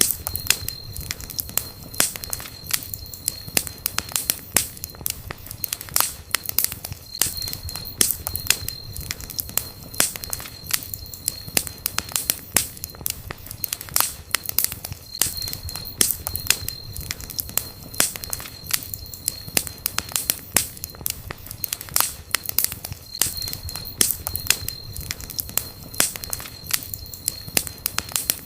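Campfire crackling and popping in dense, irregular snaps, with a thin high whistle that comes and goes every few seconds.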